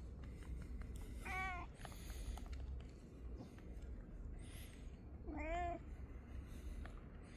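Domestic cat meowing twice, two short calls about four seconds apart, the second one louder.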